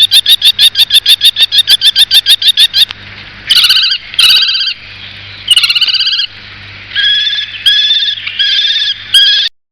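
A bird calling: a fast run of about twenty repeated notes over three seconds, then a string of short separate phrases.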